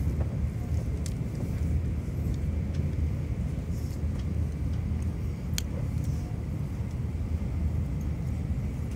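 Steady low rumble inside a Shinkansen bullet train's passenger cabin while it runs, with a sharp click about five and a half seconds in.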